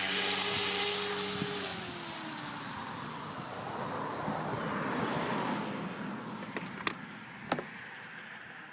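MiniProtos motor running at a steady pitch, then winding down with a falling whine after about a second and a half and fading out. Several sharp clicks come near the end.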